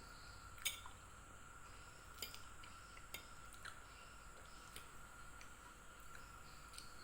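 Kitchen utensils and dishware handled, giving a few sparse light clinks and taps, the sharpest about a second in, over a faint steady high-pitched tone.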